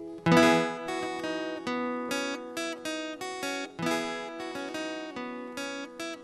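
Acoustic guitar strummed in a steady rhythm of chords, the instrumental intro of a song.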